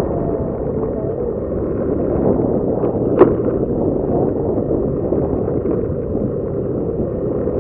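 Motorcycle underway: a steady rumble of engine and wind rushing over the microphone, with one sharp click about three seconds in.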